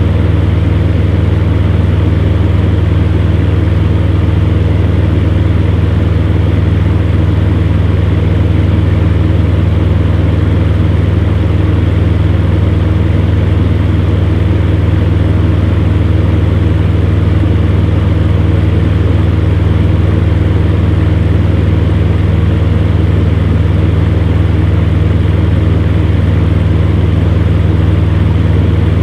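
Electric fan heater running steadily: a deep motor hum with a few faint steady tones over an even rush of blown air.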